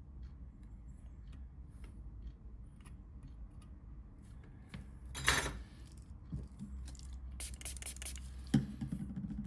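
Small tools and phone parts handled on a work surface: scattered light clicks, a short scraping rustle about five seconds in, and a few quick clicks near the end, over a low steady hum.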